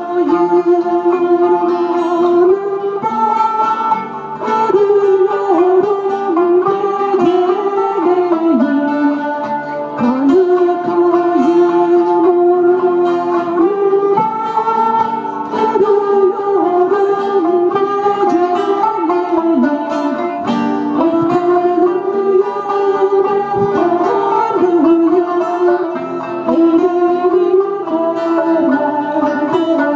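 Live acoustic performance of a Turkish song: plucked string instruments playing continuously under a wavering melody line, which is likely voice.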